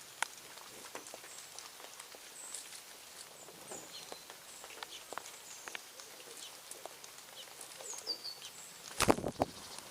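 Birds at a feeding spot: short high chirps and call notes, with scattered light clicks and taps. A louder cluster of knocks comes near the end.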